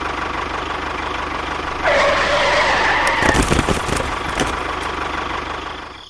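Engine-like running of a model tractor, getting louder about two seconds in as its trolley tips, then a short clatter of knocks as bamboo sticks tumble off into the sand before the sound fades.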